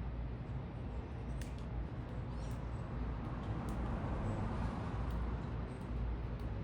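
City ambience at a bird feeder: a steady low rumble of distant traffic that swells and fades again around the middle, with faint short, high chirps and ticks of small birds scattered through it.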